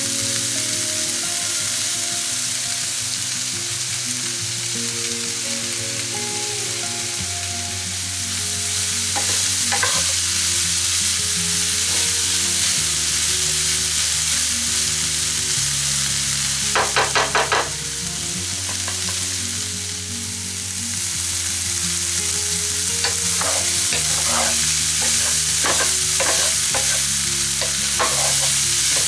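Chopped sausages, ham, peppers, courgettes and mushrooms sizzling as they are stir-fried in a pan, with a utensil stirring and scraping through them. About halfway through there is a quick run of about five knocks, and a few scattered clicks follow near the end.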